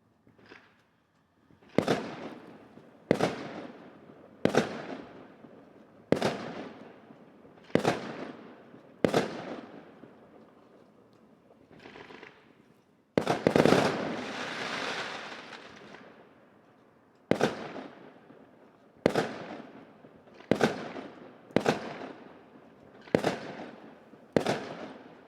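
Fireworks shells bursting: about a dozen sharp bangs, roughly one every second or two, each trailing off in a rolling echo. About halfway through, a quick double bang is followed by a couple of seconds of crackling.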